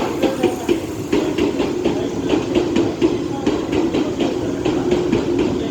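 Izukyu 2100 series (Resort 21) electric train pulling in alongside the platform: a steady running hum with a rapid, regular ticking over it.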